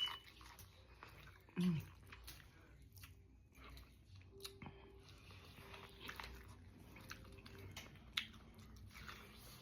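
Close-up biting and chewing of boiled corn on the cob, with scattered sharp, wet clicks of mouth and teeth.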